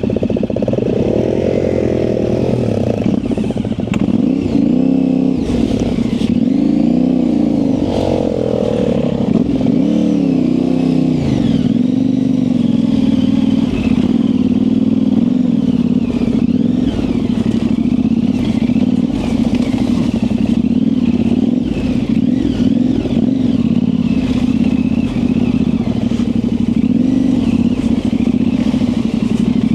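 Yamaha Ténéré 700's parallel-twin engine through an aftermarket high exhaust, riding off-road: the engine note rises and falls with the throttle through the first dozen seconds, then holds at a steadier pace for the rest.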